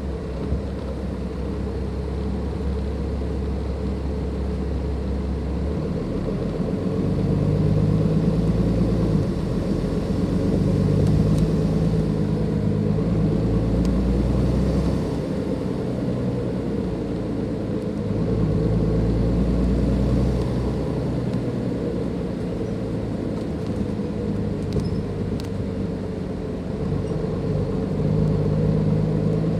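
Cummins ISLe diesel engine of a Dennis Enviro 500 double-decker bus running with its turbocharger, heard on board. The engine note rises and falls as the bus pulls under load and eases off several times, and it is louder around 8, 12, 19 and 29 seconds in.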